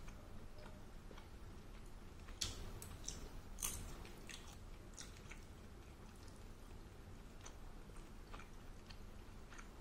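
Faint close-up chewing and mouth sounds of a person eating a piece of braised kidney, with soft scattered clicks and smacks, a few sharper ones in the first half.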